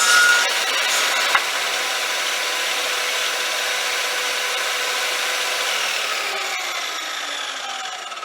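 Workzone HS80WZ benchtop table saw running steadily, with a short click a little over a second in. From about six seconds in its whine falls in pitch and fades as the blade spins down.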